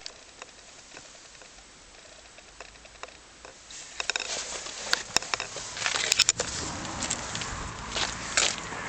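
Mazda 3 engine running cold and making its cold-engine noise. It starts faint with a few ticks, then gets louder about four seconds in, with several sharp clicks a little later and then a steady rattly running sound.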